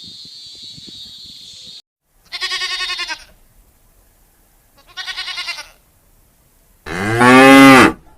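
Cattle mooing: two short, higher, wavering calls, then a longer, louder, deeper moo near the end. A steady high hiss runs until it cuts off about two seconds in.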